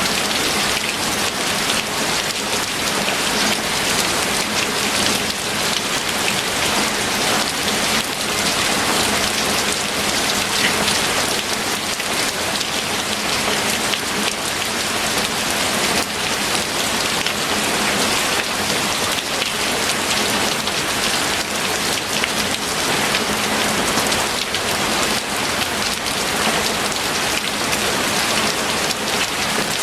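Steady rain falling and pattering on a surface, an even dense hiss of many drops.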